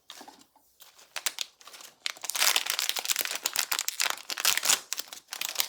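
A blind-box figure's crinkly wrapper being torn and pulled open by hand: a few light rustles at first, then dense crinkling from about two seconds in.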